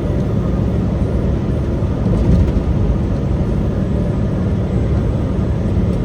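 Steady low rumble of a truck driving: engine drone and road noise.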